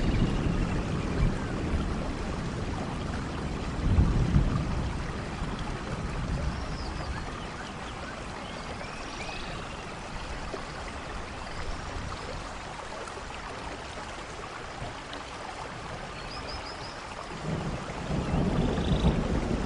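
Steady rainfall, with low rumbles of thunder at the start, about four seconds in, and building again near the end. A few faint high chirps sound over the rain.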